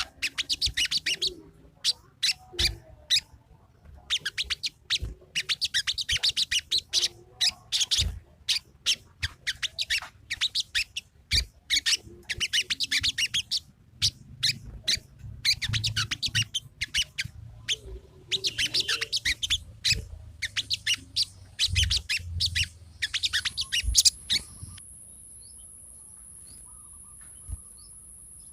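Sogon songbird in full 'ngobra' song: bursts of rapid, chattering phrases with short pauses between them, of the kind used as a lure to get a quiet sogon to sing. The song stops near the end, leaving a faint steady high whine.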